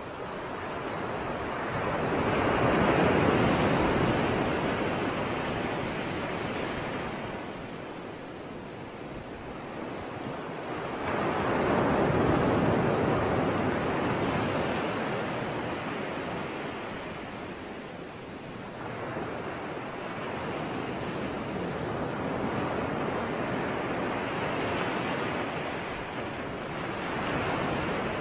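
Sea surf washing onto the shore in slow surges: the water noise swells and fades several seconds apart, the first two surges the strongest and the later ones gentler.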